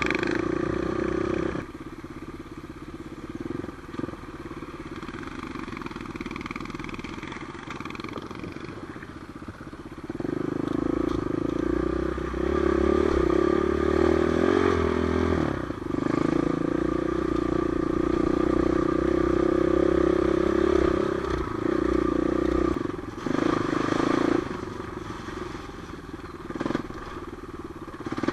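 Trail motorcycle engine running on the move, quieter at first and then much louder through the middle as the throttle is opened, with a further loud burst near the end.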